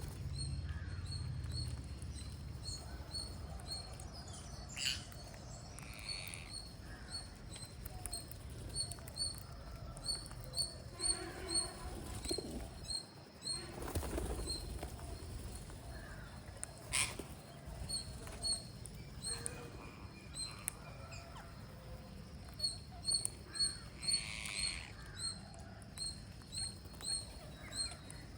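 Green parrots chirping: long runs of short, high chirps at an even pace of about two a second, with a few louder calls among them.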